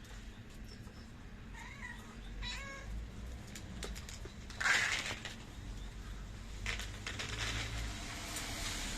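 Cat meowing twice, two short calls about two seconds in, then a brief loud burst of noise just before halfway, the loudest sound, over a steady low rumble.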